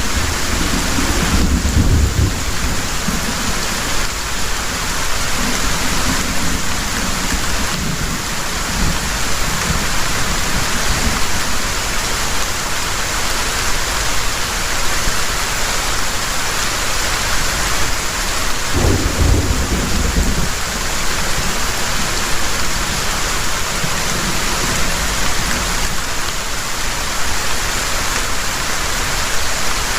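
Heavy rain falling steadily, with thunder rumbling low at the start and again about two-thirds of the way through.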